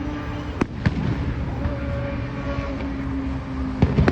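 Fireworks shells bursting: a pair of sharp bangs about half a second in and another pair near the end, over a steady low hum.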